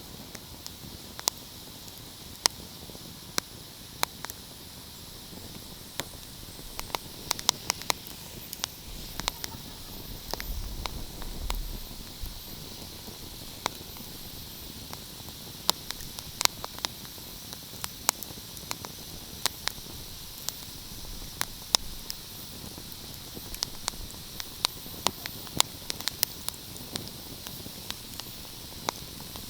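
Wood fire crackling: irregular sharp pops and snaps over a steady hiss, with a brief low rumble about eleven seconds in.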